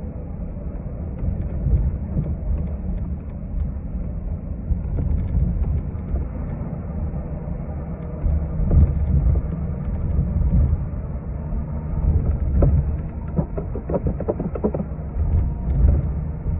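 Interior of a city transit bus in motion: steady low rumble of the engine and road noise, with a few short rattles or knocks about three-quarters of the way through.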